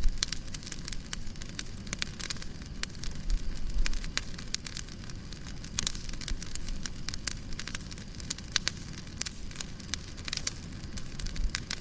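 Fireplace fire crackling, with many sharp, irregular pops over a low, steady rumble.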